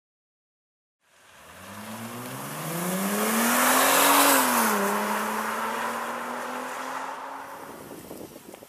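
Chrysler Crossfire's 3.2-litre V6 on a stainless-steel aftermarket exhaust, accelerating past. The exhaust note climbs in pitch and grows louder, drops quickly about four and a half seconds in, then holds steady as it fades away.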